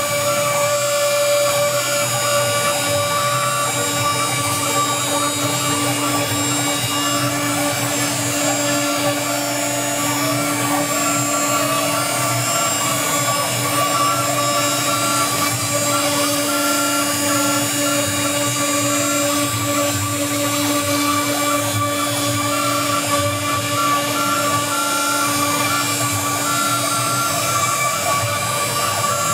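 CNC router with a 2.2 kW water-cooled spindle cutting a finishing pass on a relief, a steady machine whine. A lower steady tone joins about four seconds in and stops near the end.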